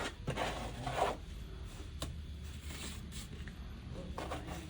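Cement plaster being worked onto a wall with a trowel, the blade scraping and rasping across the wet mortar: a stroke of about a second at the start, a sharp click about two seconds in, and a shorter stroke near the end.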